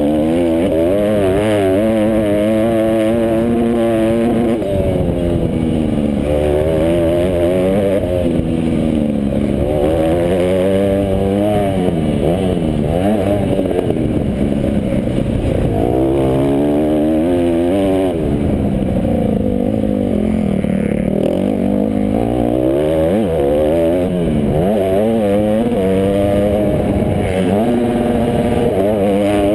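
Several motocross bikes' engines revving on a race track, overlapping, their pitch repeatedly rising and falling as they accelerate and shift.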